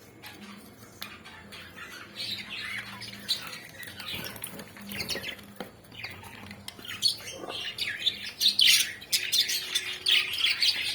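A flock of budgerigars chirping in a dense, overlapping chatter that grows louder and busier toward the end.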